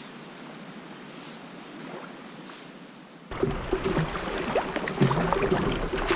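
Lake water washing softly, then about three seconds in a sudden change to louder water splashing with a low wind rumble on the microphone.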